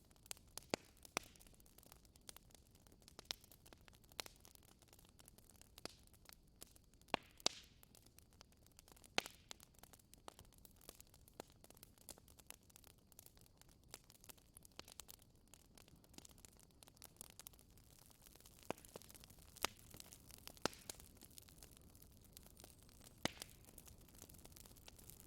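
Wood fire crackling: irregular sharp pops and snaps over a faint steady hiss, a few pops much louder than the rest.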